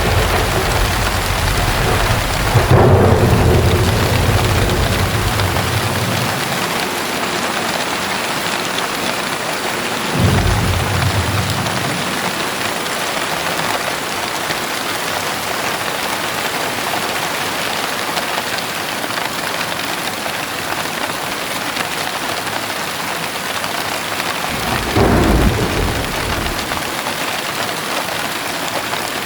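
Heavy rain pouring steadily, with rolls of thunder: a long low rumble a few seconds in, a shorter one around ten seconds, and another near the end.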